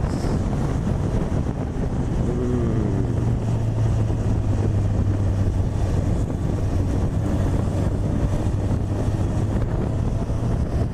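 Honda CB1000R inline-four engine running at a steady cruise, its low drone holding an even pitch, under heavy wind rush on the microphone.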